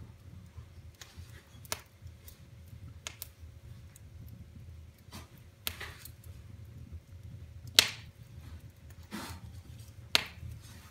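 Wood fire in a fireplace crackling: scattered sharp pops every second or two, the loudest about eight seconds in, over a low steady rumble.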